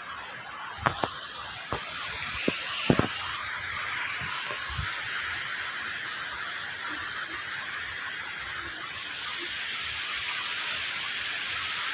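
Steady rushing hiss of a waterfall's falling water, starting suddenly about a second in. There are a few sharp knocks in the first three seconds.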